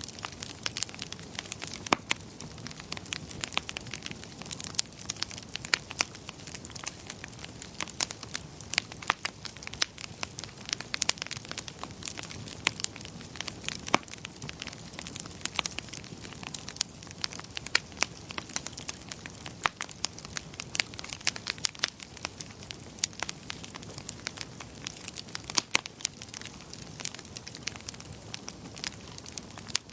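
Wood fire crackling steadily, with many sharp irregular pops and snaps over a soft low hiss of burning.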